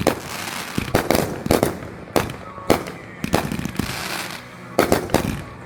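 Backyard consumer fireworks going off: a quick string of sharp bangs, about eight in under six seconds, with crackling between them.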